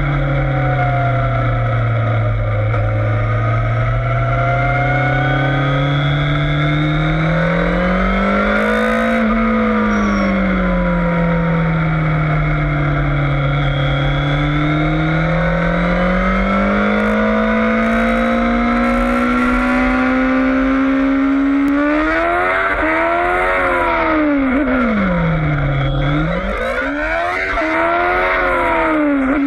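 Yamaha FZS600 Fazer inline-four engine running hard on track, its revs climbing and falling slowly through the first two thirds. In the last third the revs rise and drop quickly three times, as if under hard acceleration and braking into turns.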